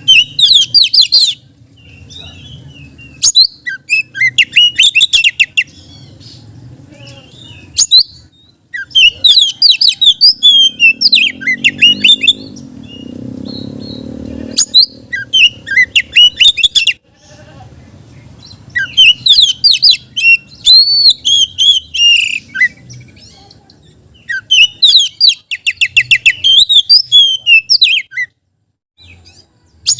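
An Oriental magpie-robin (kacer) singing loudly in six bursts of rapid, varied whistles and chattering trills, each lasting a few seconds, with short pauses between them. A faint low hum sits underneath and swells briefly in the middle.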